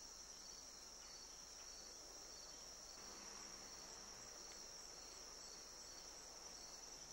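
Faint insects trilling: a steady high shrill, with a second, slightly lower chirp that pulses about twice a second.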